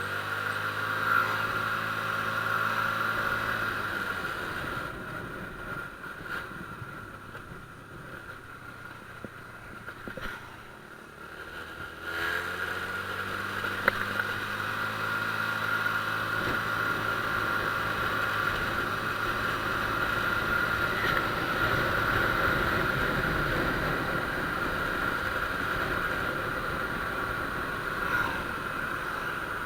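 Honda Click scooter engine accelerating with rising pitch, then easing off and going quieter for several seconds before accelerating again about twelve seconds in and running on steadily.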